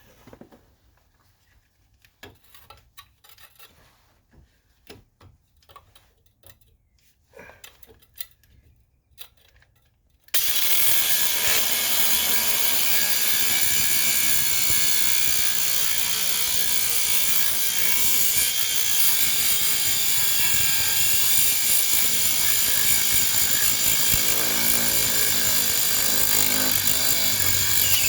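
Light handling clicks, then about ten seconds in a battery-powered cutoff tool starts abruptly and its small abrasive wheel grinds steadily into the steel of a front control arm, with a high steady whine over the grinding. The cut is needed because the arm's bushing has seized to its bolt.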